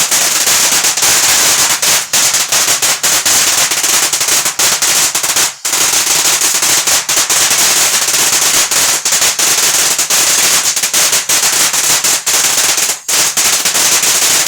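Fireworks going off in a loud, rapid, continuous barrage of crackling bangs, with two brief lulls, overloading the tablet's microphone.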